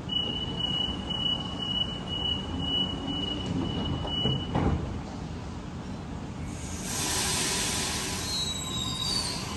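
Suburban electric train at a station platform: a steady high-pitched wheel squeal that holds for about four and a half seconds, then a rushing hiss of the train that swells from about seven seconds in, with a few short squeals near the end.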